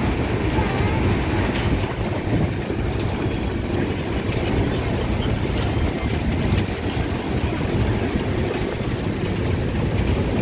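Steady rumble of a moving passenger train, heard from inside a crowded Indian Railways general coach, with faint knocks now and then.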